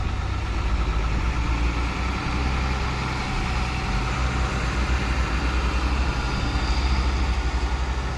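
Large diesel dump truck engine idling steadily with a deep, pulsing rumble.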